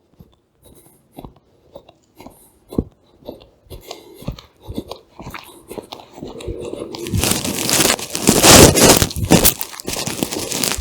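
Footsteps crunching on a stony path, irregular steps. From about seven seconds in, a louder rustling noise rises over the steps and eases off near the end.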